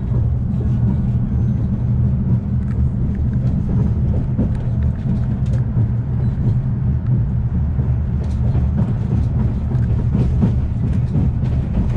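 Steady low rumble of the Afrosiyob high-speed train running at speed, heard from inside a passenger car, with occasional light clicks and rattles.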